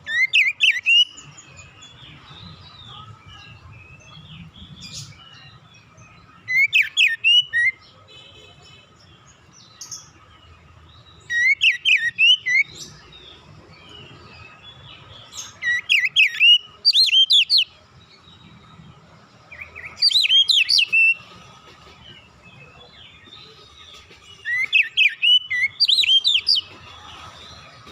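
Oriental magpie-robin (kacer) singing in short phrases of rapid sweeping whistled notes, six phrases spaced a few seconds apart.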